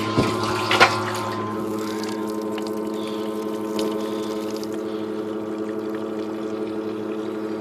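Water running from a tap into a lawn mower's gas tank, with a steady droning hum from the water supply throughout. A sharp knock comes just under a second in.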